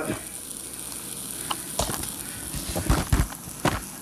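Steady sizzling hiss from a small steam engine's boiler heating over its lit burner. A few short knocks come in the second half.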